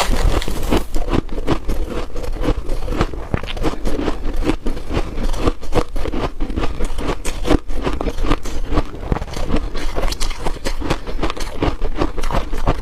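Freezer frost being bitten and chewed close to the microphone: a dense, uneven run of crisp crunches and crackles.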